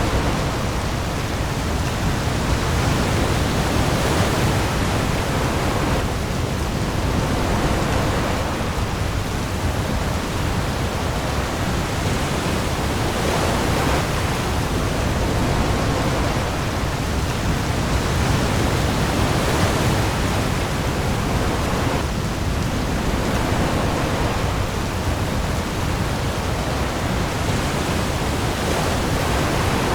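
Steady hiss of heavy rain on the sea, with waves swelling every few seconds over a deep low rumble.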